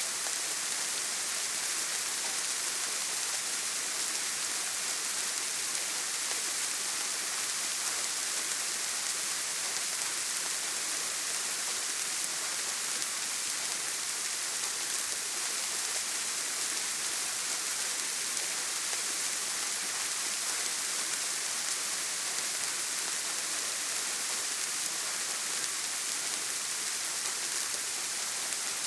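Heavy rain falling steadily on a tin roof: a dense, even hiss with no thunder.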